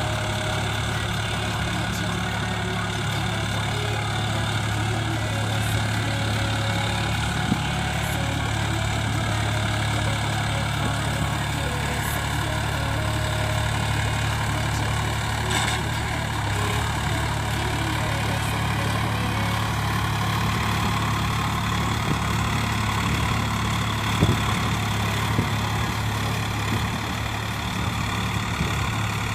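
Sonalika RX 745 tractor's diesel engine running steadily under full load, working a rotavator, with a few brief knocks.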